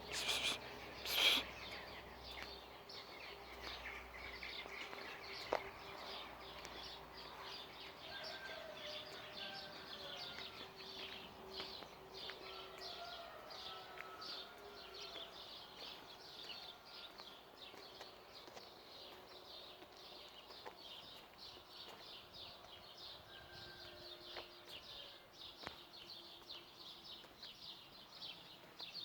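Small birds chirping outdoors: a dense run of rapid high chirps, with a few fainter, lower calls mixed in. A brief louder sound comes about a second in.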